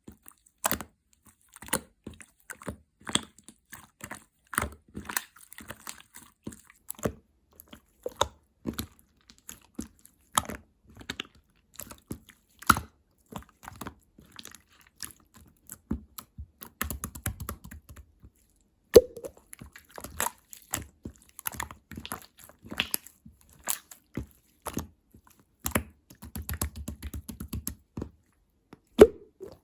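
Clear slime being squeezed and worked by hand, making irregular sharp wet clicks and pops, with two spells of fast crackling, one around the middle and one near the end.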